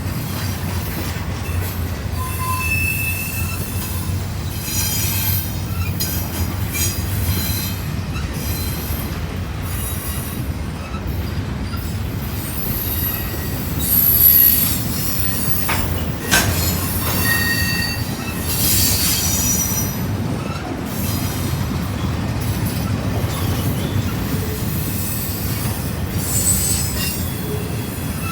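Intermodal freight train cars rolling past with a steady low rumble. Short high-pitched wheel squeals come and go throughout, and there is a single sharp knock about two-thirds of the way through.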